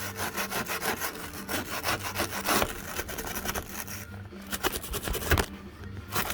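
Rapid back-and-forth scrubbing of corroded aluminum by hand, about five strokes a second, stripping corrosion for repaint. There is a short break about four seconds in, then a few harder strokes.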